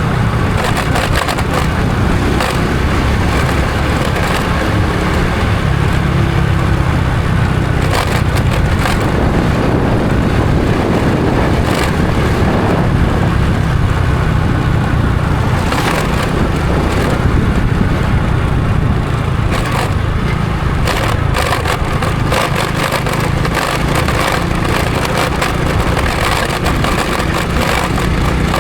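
Honda Supra X 125 FI's single-cylinder four-stroke engine running steadily as the motorcycle is ridden, with road and wind noise and frequent crackling clicks over it.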